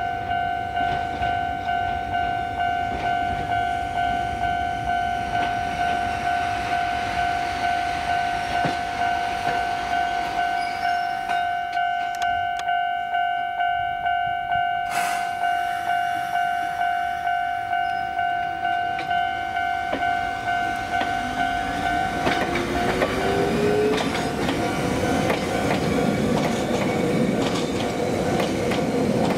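A warning bell rings in a steady pulse, about two strokes a second, until a little after twenty seconds in. Then a Kobe Electric Railway electric train moves past, its motor whine rising in pitch and its wheels clattering over the rails.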